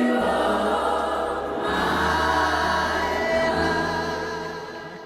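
Choir singing a gospel song with sustained chords over a low bass line, fading out near the end.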